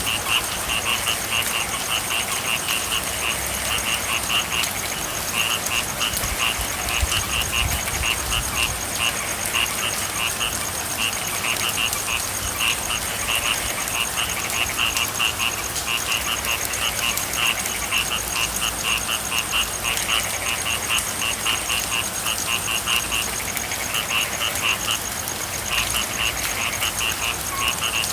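Frog chorus: rapid trains of high-pitched pulsed calls repeating in bouts, over the steady hiss of rain.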